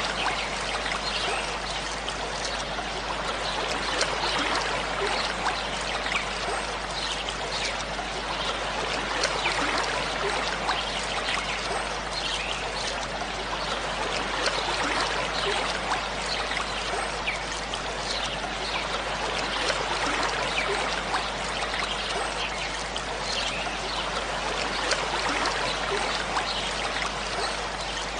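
Waterfall running: a steady, unbroken rush of falling, splashing water, full of small splashes and with little deep rumble.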